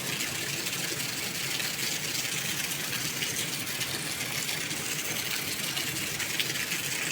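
Steady heavy rain: an even, unbroken hiss of falling rain with no single drops standing out.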